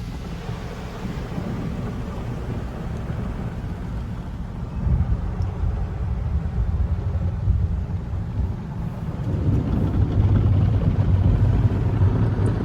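Tunnel car wash heard from inside the car: a steady low rumble of the wash equipment and spray during the pre-soak and lava soap stage, growing louder about five seconds in and again near the end.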